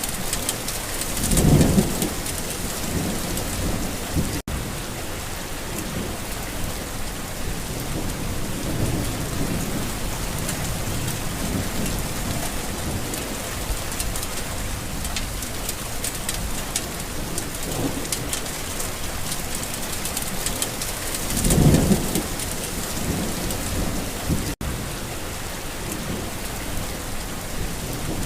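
Steady heavy rain hiss with low rolls of thunder, louder about a second and a half in and again about two thirds of the way through. The sound drops out for an instant twice.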